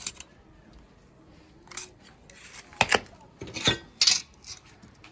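Metal tools and steel plate being handled: a handful of short clinks, knocks and scrapes, the loudest around three to four seconds in.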